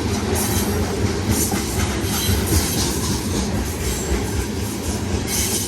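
BNSF train running past on the tracks: a loud, steady rumble of wheels on rail with recurring sharp clacks.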